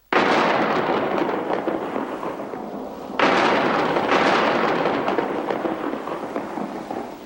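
Cartoon thunder sound effect: two loud claps, one at the start and one about three seconds in, each dying away slowly.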